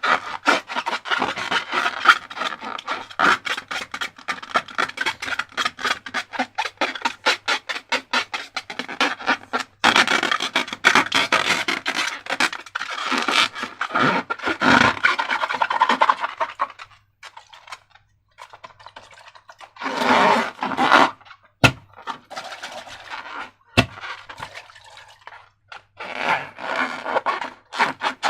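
Slime being worked by hand: dense wet, sticky crackling and scraping. It goes quiet for a few seconds about two-thirds of the way through, then resumes in shorter bursts with a couple of sharp snaps.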